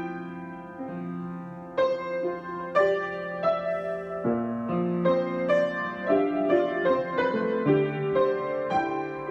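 Piano being improvised: an unhurried line of single struck notes over held low chords, each note ringing and fading.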